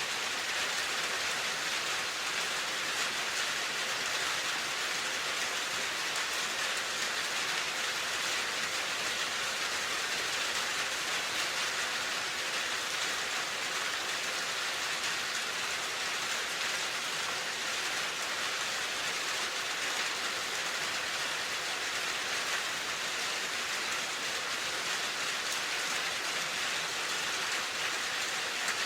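Steady rain falling, an even hiss of drops without pause or change.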